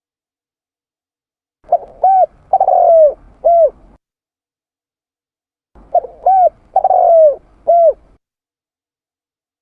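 Spotted dove (tekukur) cooing: two phrases of four notes each, the third note the longest and falling in pitch, with a pause of about two seconds between them.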